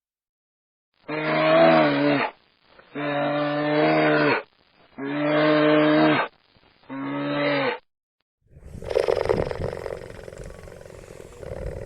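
Four long, pitched animal calls one after another, each lasting about a second, followed after a short pause by a rough, rasping growl that starts near the end and keeps going.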